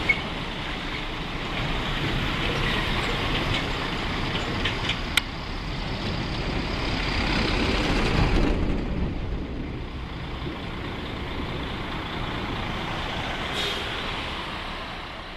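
Scania truck running as it pulls away, its engine noise swelling to the loudest point about eight seconds in and then fading, with a sharp click partway through and a brief hiss near the end.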